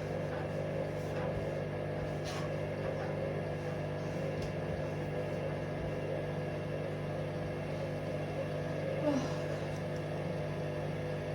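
Hoover Vision Dynamic washing machine's drum motor running with a steady hum, turning the drum without rising to spin speed while it tries to balance the load.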